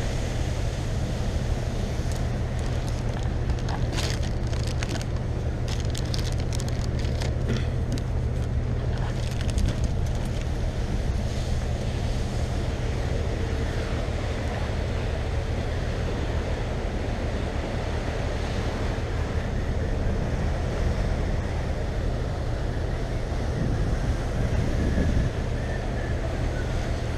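Wind buffeting the microphone on the open deck of a ferry at sea, over a steady low rumble from the ship and the sea. A run of faint crackles comes a few seconds in.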